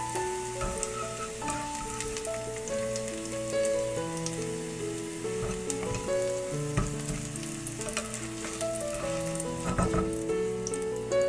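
Sliced bell pepper rings sizzling and crackling in hot oil in a nonstick frying pan as they are stirred with a plastic slotted spatula, with a few sharper scrapes and taps of the spatula near the end. A gentle melody of background music plays throughout.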